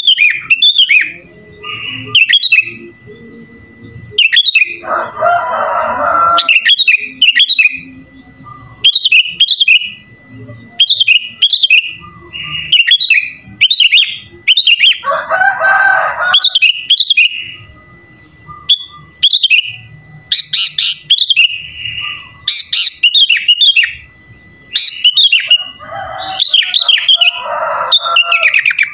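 Sooty-headed bulbul (kutilang) singing a song filled with phrases copied from other birds: short chirping phrases repeated every second or two, broken by three harsher, rasping stretches of about a second each. A faint steady high tone runs underneath.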